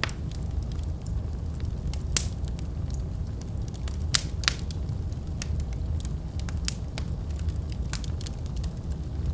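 Wood fire burning in a fireplace: a steady low rumble of flames with scattered sharp crackles and pops, the loudest pop about two seconds in.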